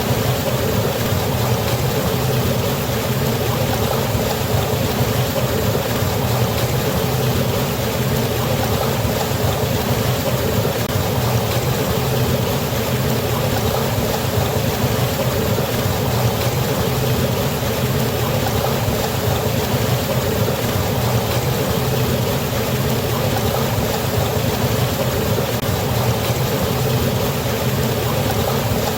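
Steady, unbroken rushing of falling river water, with a deep low rumble under the splash.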